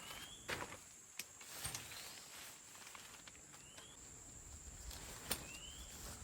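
Forest ambience: a steady high-pitched insect drone, and a bird repeating a short rising whistle about every two seconds. A few sharp clicks and knocks come through, the loudest about five seconds in.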